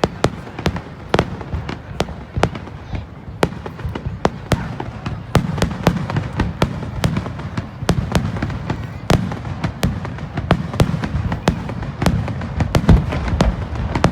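Fireworks bursting in quick succession: many sharp cracks and pops, several a second and irregular, over a low booming rumble.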